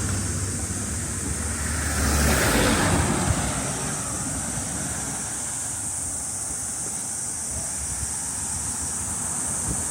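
A steady, high-pitched drone of cicadas in the summer forest, with a vehicle whooshing past about two to three seconds in.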